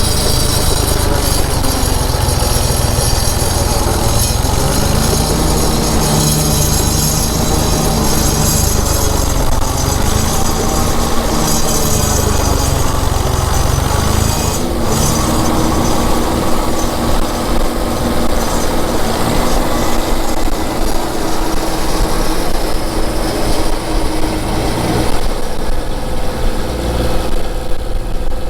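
Open-station tractor engine running under load, its pitch sagging and recovering several times, beneath a steady rushing hiss.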